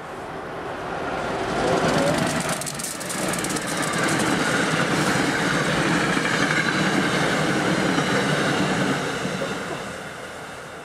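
Electric passenger train passing at speed. Its rumble and rail noise build up, hold loud with a high steady whine for several seconds, then fade away near the end as the train recedes.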